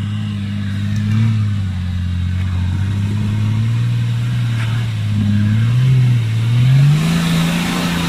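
Off-road 4x4's engine running at low revs as it pulls up a steep rocky climb, then revving up with a rising pitch near the end.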